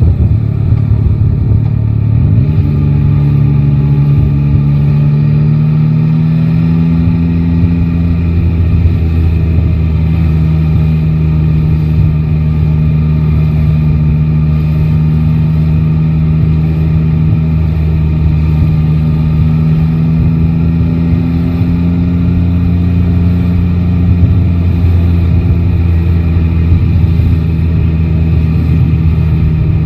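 Yamaha Tracer 9 GT's 890 cc inline-three engine under way in city riding. Its pitch drops at the start, climbs quickly about two seconds in, then holds steady at moderate revs, rising gently twice.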